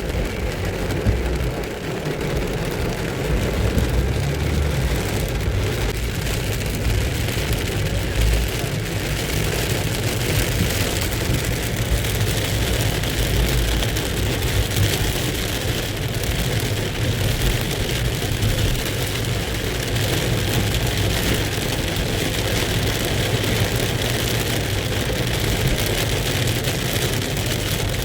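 Heavy rain pouring down in a steady rush, with a constant low rumble underneath.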